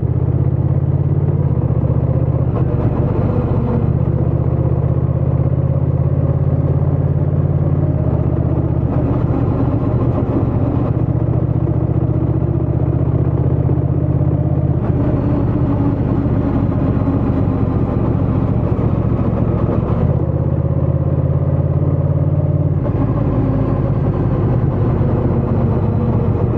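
Honda Rebel 1100 DCT's parallel-twin engine and exhaust running on the move, a steady note whose pitch shifts in steps several times.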